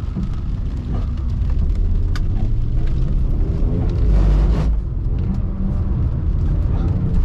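BMW E46 320i's M54B22 2.2-litre inline-six engine running under throttle, its pitch climbing about three to four seconds in as it revs up, with a louder hissing patch just after four seconds.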